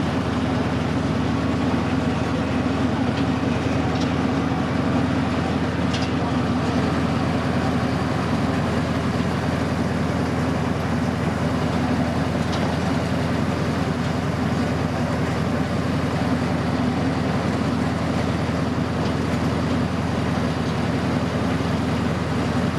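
Steady running noise of the tourist train, heard from aboard a car as it rolls along the track, with a faint click or two.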